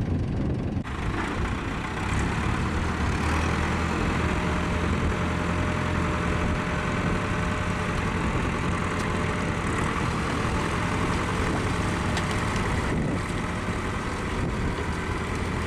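Tractor engine running steadily, with a broad hiss that grows louder about a second in.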